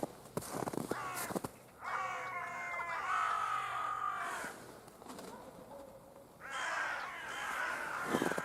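Crows cawing in two runs of harsh calls, one starting about two seconds in and another about six and a half seconds in. Footsteps crunch in snow at the start and again near the end.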